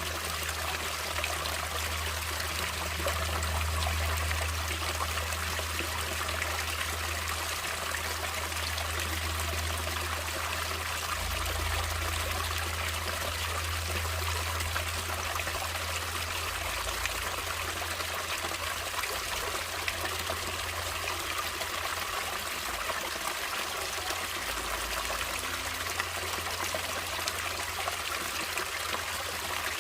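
Stream water running and trickling steadily, with a low rumble underneath.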